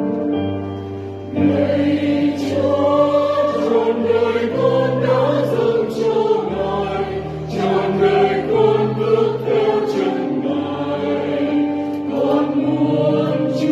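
A choir singing a Catholic hymn in Vietnamese over keyboard accompaniment. The voices come in loudly about a second and a half in, after a few held instrumental chords.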